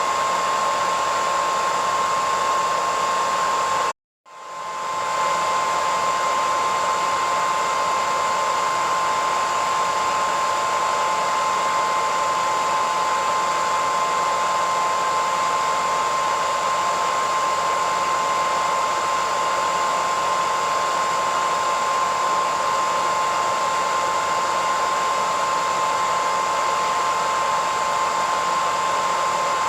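Hair dryer running steadily, an even rush of air with a high whine from the motor. About four seconds in, the sound cuts out for a moment and then swells back up, as at the splice of a loop.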